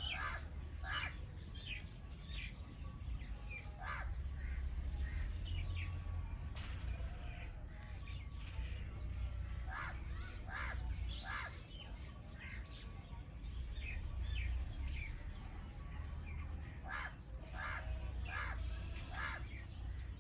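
A flock of birds calling: many short calls overlap in quick succession, several a second, over a steady low rumble.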